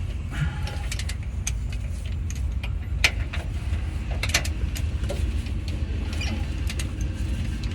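A steady low rumble like a running engine, with scattered sharp clicks, the loudest about three seconds in.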